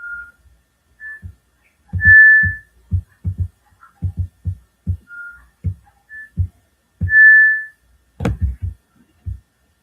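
A whistled tune of short and held notes at two pitches over a low thumping beat, with one sharp, louder hit near the end.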